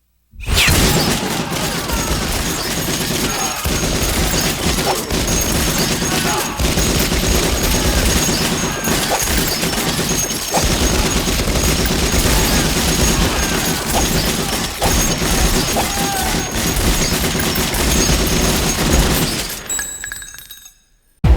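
Film gunfight sound effects: dense, continuous gunfire with many sharp shots. It starts suddenly just after the start and fades out near the end.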